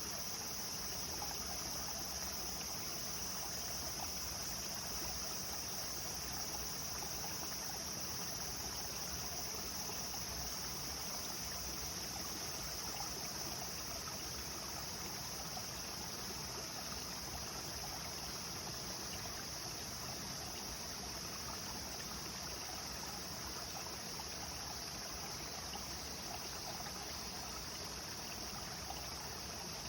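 Clear river flowing: a steady, unbroken rush of running water.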